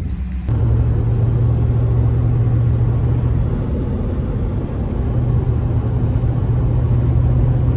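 Pickup truck on the move, heard from inside the cab: a steady low engine and road drone that eases off a little about halfway through, then picks back up.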